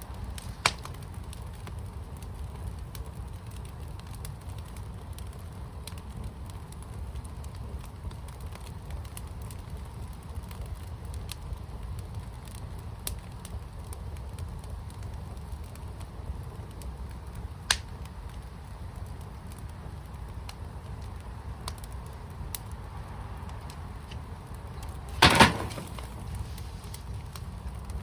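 Fire pit burning: a low steady rumble with a few scattered sharp crackles, and a louder quick cluster of pops near the end.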